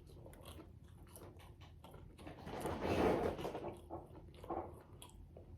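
A person chewing fried chicken tenders with the mouth open, with many small wet clicks and a louder noisy stretch of chewing about three seconds in.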